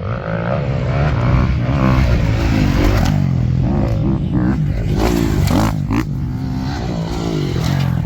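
Motor vehicle engine running under load, its pitch rising and falling as it revs.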